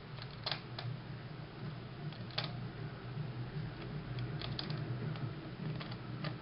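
Piper aircraft landing gear mechanism working, with irregular mechanical clicks and creaks over a steady low hum.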